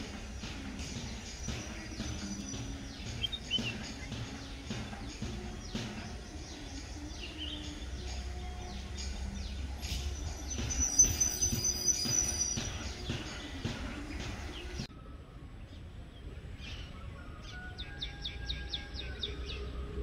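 Outdoor ambience of small birds chirping over a steady low rumble, with many short chirps. About fifteen seconds in it changes abruptly to a quieter scene with a quick, even run of chirps.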